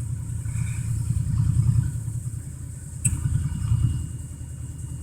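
1987 Dodge Ram D150's engine idling just after a cold start, a steady low running that swells slightly twice. A sharp click comes about three seconds in.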